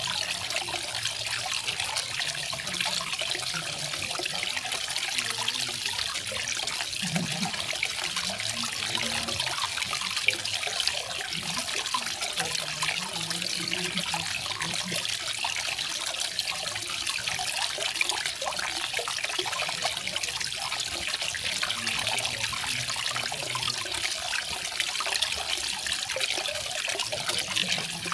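Garden waterfall: a steady, even splash and trickle of falling water.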